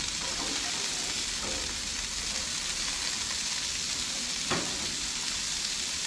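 Asparagus spears frying in hot bacon grease on a Blackstone flat-top griddle: a steady sizzle, with one brief knock about four and a half seconds in.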